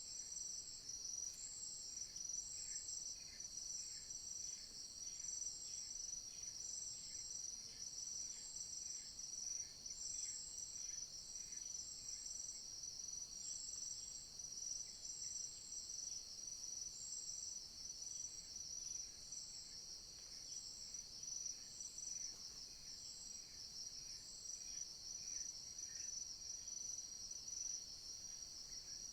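Forest insects chirring: a steady high-pitched drone, with a pulsing chirp over it at about two a second that thins out after the middle.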